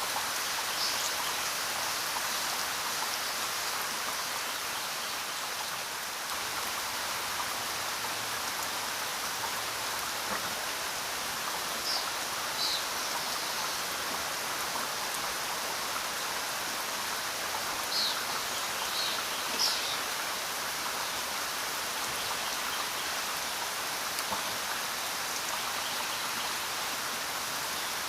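Steady rain falling, an even hiss without breaks. A few brief high-pitched blips stand out above it, around twelve, eighteen and twenty seconds in.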